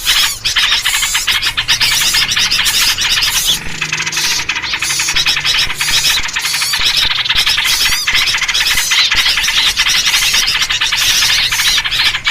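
Dense, unbroken chorus of many small birds chattering, chirping and squealing at once, mixed with trucuk bulbul calls: a 'ribut' (noisy flock) lure recording used to draw wild birds in.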